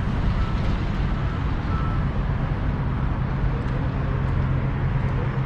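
Steady vehicle running noise while moving: a low rumble with a low hum that grows stronger about four seconds in.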